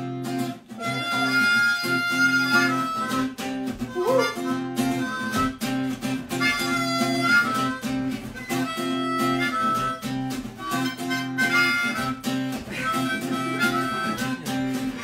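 Instrumental song introduction: acoustic guitar strumming chords in a steady rhythm, with a wind instrument playing sustained melody notes above.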